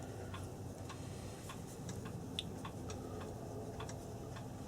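Clocks ticking, several sharp ticks a second at uneven spacing, as from more than one clock going at once.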